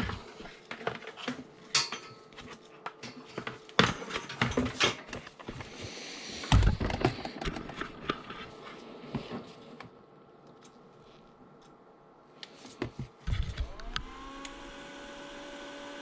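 Clicks and knocks of plastic parts being handled as batteries are seated in the Kress 60 V battery charger and its cord is plugged in. About two seconds before the end, the charger's internal cooling fan cuts in, rising in pitch and settling into a steady hum.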